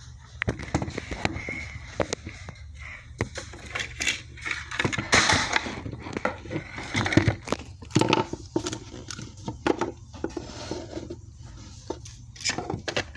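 Small plastic toys being handled: a run of irregular taps, clicks and light scrapes as dolls and toy furniture are moved about.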